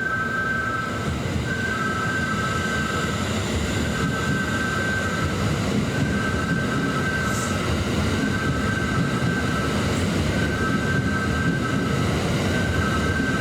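Kintetsu Nara Line electric train running through the station, a steady rumble of wheels and motors. Over it rings a high two-note tone that repeats.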